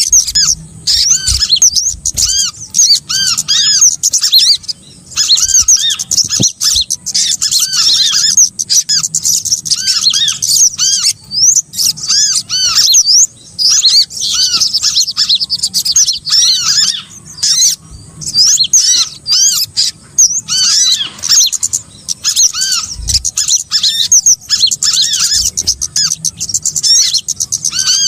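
A lure recording of small songbirds: many short, high, arched chirps and twitters repeated rapidly and overlapping, with brief pauses, meant to call small birds in for trapping.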